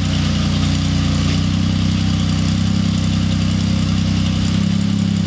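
Off-road rock crawler's engine idling steadily.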